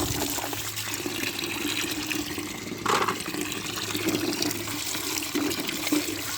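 Tap water running steadily and splashing over plastic toy vehicles being washed, with a brief louder splash about three seconds in and a steady low hum underneath.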